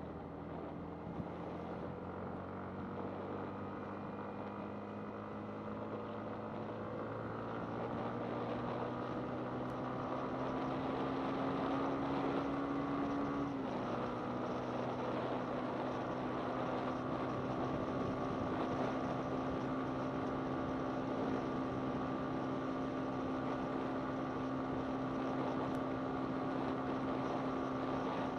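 Yamaha MT-15's 155 cc single-cylinder engine running under way, its pitch climbing steadily as the bike speeds up. About halfway through the pitch dips and then holds steady at cruising speed.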